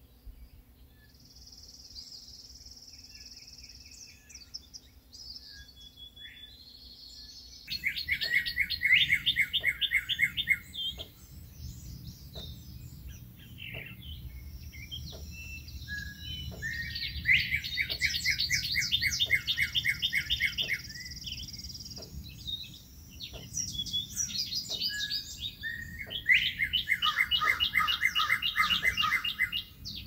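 Songbirds singing in a morning chorus: long clear high whistles for the first few seconds, then loud, fast trills of many quick notes, repeated phrase after phrase.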